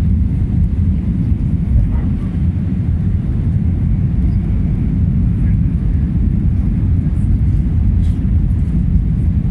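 Steady low rumble of an Airbus A320's jet engines as the airliner comes in to land.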